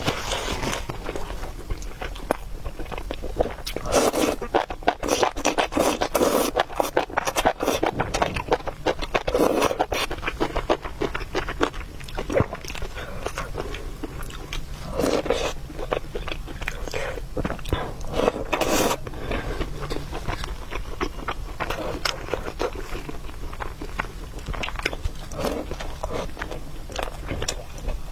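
Close-up eating sounds of a person chewing and biting food: a steady run of short mouth clicks, with louder bursts every few seconds.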